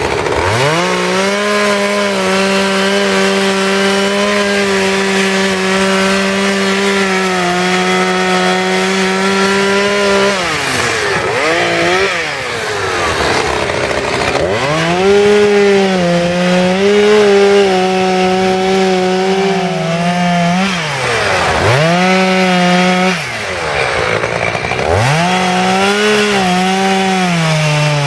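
Two-stroke chainsaw cutting into wood at full throttle, its pitch held steady for about ten seconds. It then eases off and picks up again several times in the second half as the throttle is let off and squeezed.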